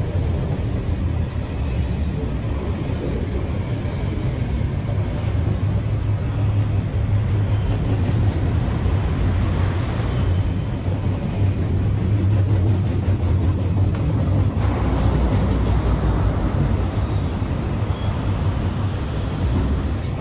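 Log freight train running along the line: diesel locomotive and loaded log wagons rolling past in a steady low rumble.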